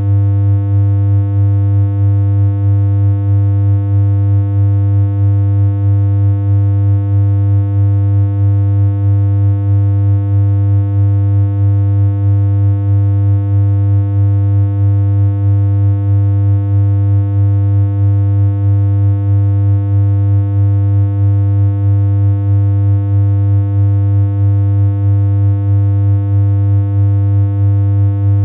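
A synthesized electronic hum: one low buzzy tone held steady and unchanging, with a slight pulse in loudness about twice a second.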